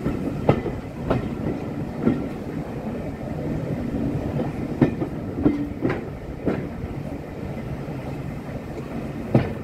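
Steam-hauled passenger train running along the line, heard from the carriage: a steady rumble of the coach on the track with sharp clicks at uneven intervals as the wheels pass over rail joints.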